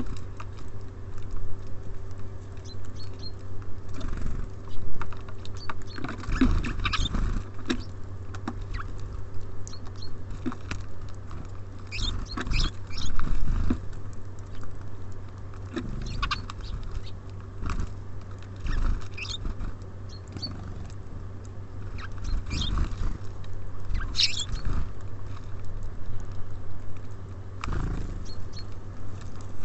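Small birds feeding at a bird feeder: irregular pecking and tapping at seed and scuffling on the feeder, with a few faint, short high call notes. A steady low hum runs underneath.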